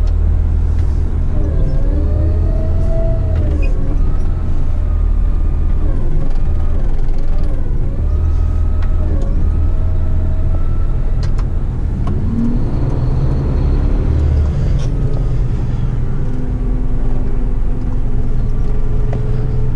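Diesel engine and road noise of an 8-wheeler twin-steer waste truck heard from inside the cab while driving, a steady low rumble with engine tones rising and falling in pitch as the revs change.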